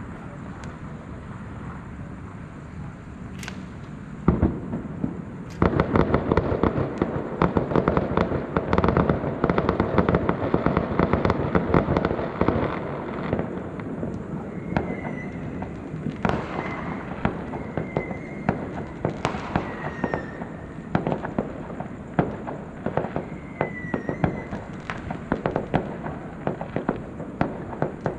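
Chinese New Year fireworks and firecrackers going off: a single bang about four seconds in, then a dense rapid crackle for about seven seconds, followed by scattered pops and bangs.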